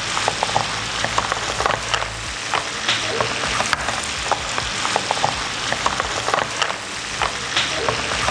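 Crab pieces frying in a bubbling butter sauce with whole garlic cloves and shallots in a frying pan: a steady sizzle with many small, irregular pops and crackles.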